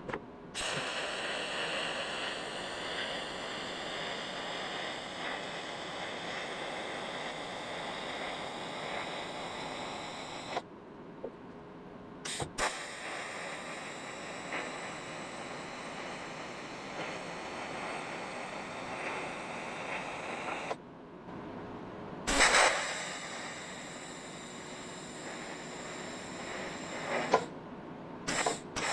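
A welding arc running a pass along a car's sheet-steel quarter panel, an even steady hiss in three long stretches. It stops briefly about ten seconds in and again about twenty-one seconds in, and each restart begins with a sharp burst. The pass runs smoothly.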